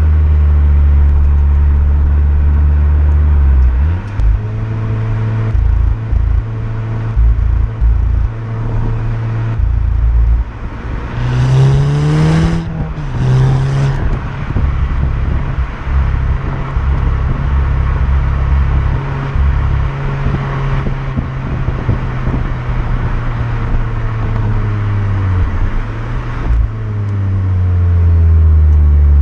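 Stock Volkswagen Golf 6 GTI's 2.0 TSI turbo four-cylinder engine and exhaust while driving: the engine note climbs sharply in a short burst of revs about twelve seconds in, then settles to a steady run, and changes again near the end.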